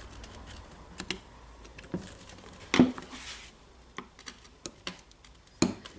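Screwdriver working at a greasy spring ring in a rotary hammer's metal gear housing: irregular small metal clicks and scrapes, with a louder clack and short scrape about three seconds in and another clack near the end.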